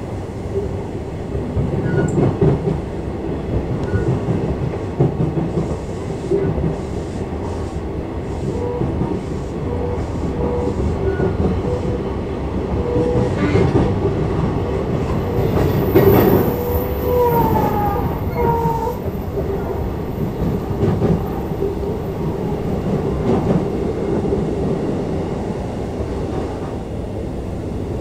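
JR East E233-5000 series electric commuter train running between stations, heard from inside the car: a steady rolling rumble, with a few short whining tones that slide down in pitch around the middle.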